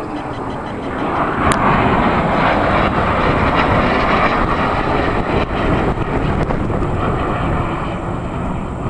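AV-8B Harrier's Rolls-Royce Pegasus turbofan jet engine running loud and steady nearby. The noise swells about a second in, then holds.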